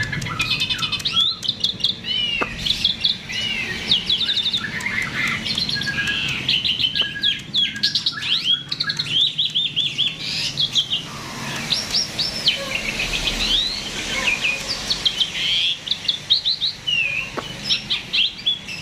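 A starling (jalak) in full, persistent song: a continuous, rapid run of varied chirps, whistles and trills with many quickly repeated notes.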